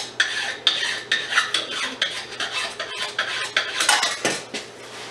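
Small metal parts and hand tools clinking and rattling while scrap is being dismantled by hand: a quick, irregular run of light clinks with a couple of louder clanks about four seconds in.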